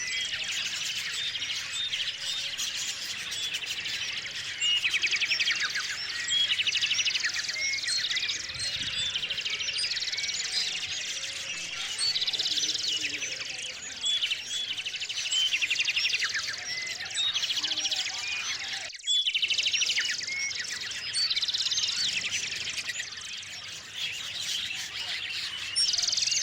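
A chorus of small songbirds chirping and twittering at close range, with many short calls and rapid trills overlapping. It breaks off for a split second about two-thirds of the way through.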